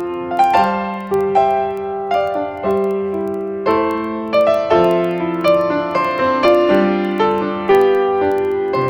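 Background piano music: a gentle melody of single notes over a repeating chord pattern, several notes a second.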